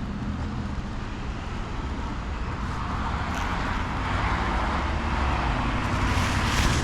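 Road traffic: a vehicle's engine and tyre noise swelling as it comes closer, over a steady low rumble.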